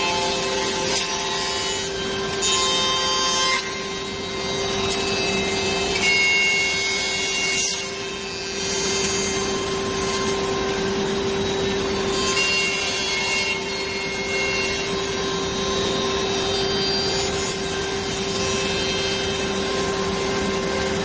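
CNC double-end tenon and mortise machine running with a steady spindle whine, its cutters biting into wood in louder passes every few seconds.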